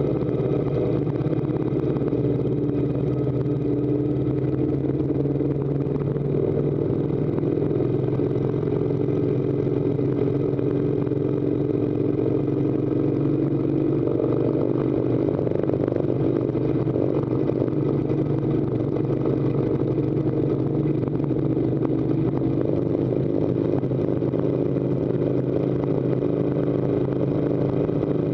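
Harley-Davidson V-twin motorcycle engine running steadily under load while riding uphill, with road and wind noise.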